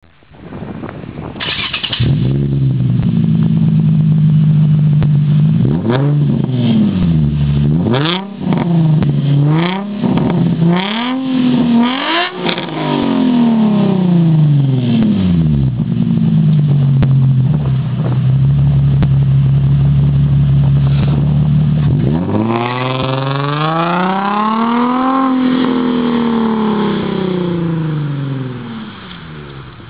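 Nissan 350Z V6 with an Invidia N1 cat-back exhaust and resonated test pipes (cats deleted) fires up and settles into a steady idle, then is blipped in a quick series of short revs. After more idle it is revved once, long and slow, rising and then falling back.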